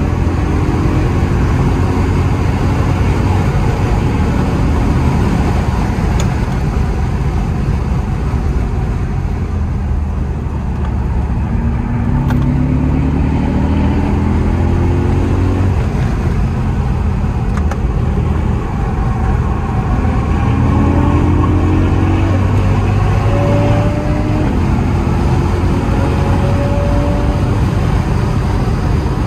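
Car engine and road noise heard from inside the cabin while the car is driven hard on a race circuit. The engine note rises several times as the car accelerates, with a steady rumble and tyre noise underneath.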